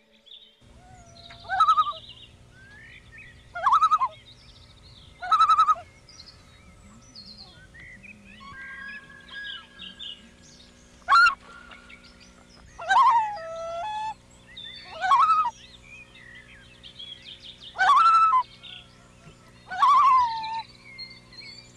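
A large bird calling over and over in loud, short, downward-bending calls, about one every two seconds with a pause in the middle, and softer chirps between.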